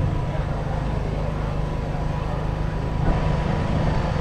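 Kubota M5-112 tractor's 3.8-litre four-cylinder diesel engine running steadily, with a brief click about three seconds in.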